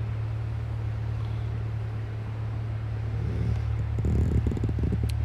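C8 Corvette's 6.2-litre V8 idling with a steady low drone, the car stopped in drive. A short burst of rattling noise comes about four seconds in.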